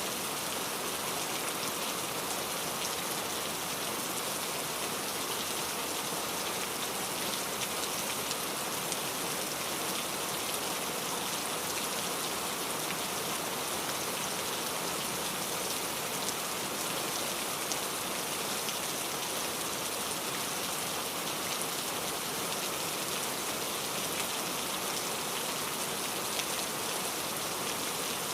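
Steady rainfall, a dense even hiss with many small drops pattering on a surface.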